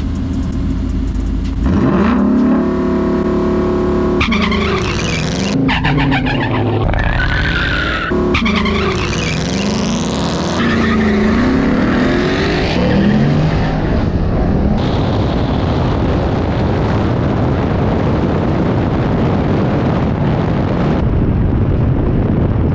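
A V8 car doing a burnout on drag slicks: the engine revs up and down repeatedly with tyre squeal over it. From about halfway the sound settles into a dense, steady mix of engine and spinning-tyre noise.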